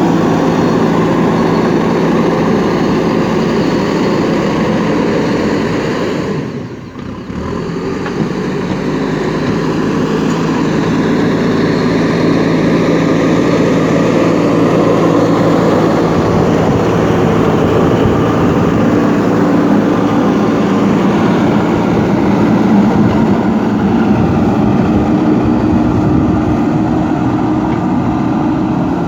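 Diesel engine of a JCB backhoe loader running steadily. The sound drops away briefly about seven seconds in, then comes back.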